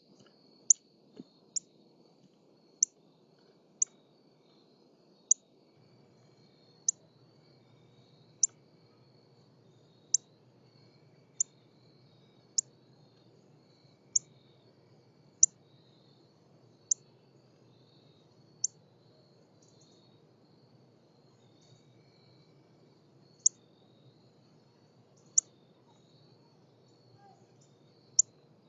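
Female northern cardinal giving short, sharp, high chip calls, about one every one to two seconds, with a pause of a few seconds past the middle. A faint steady high buzz runs underneath.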